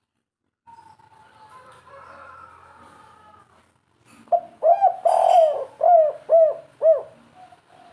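Spotted dove (tekukur) cooing: a phrase of five hoarse, arched coos in the second half, the second one the loudest.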